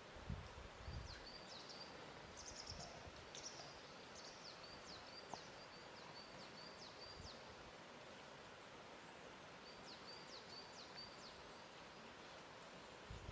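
Faint lakeside ambience: a steady soft hiss with a small bird chirping in quick high notes, in runs through the first half and again near the end. A few soft low thuds come in the first second.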